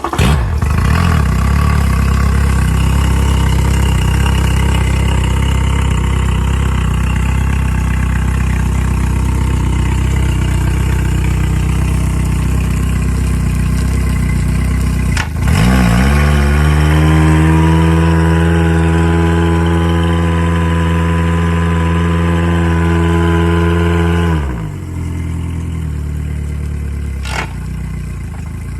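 Yamaha SR-X boat's engine starting and running steadily. About halfway through, an electric power tilt motor comes on with a whine that rises to a steady pitch, runs for about nine seconds and stops, leaving the engine running quieter underneath.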